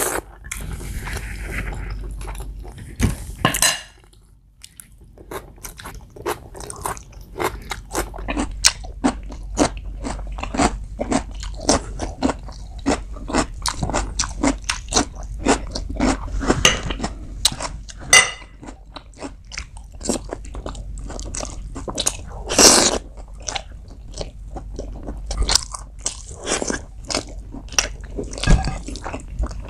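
Close-miked eating: a person chewing and smacking spicy pork curry and biryani rice eaten by hand, with crunchy bites of raw cucumber. A dense run of short clicks and wet mouth sounds, with one louder crunch a little past two-thirds of the way through.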